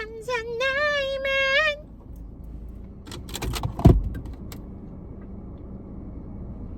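A woman's high sung note, held and wavering, for the first two seconds. Then the low rumble of a moving car's cabin, with a few clicks and one sharp thump about four seconds in.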